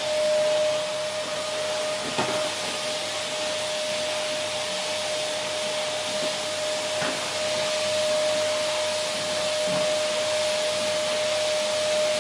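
Vacuum cleaner running steadily: an even rushing hiss with a motor whine held on one pitch, and a few faint knocks.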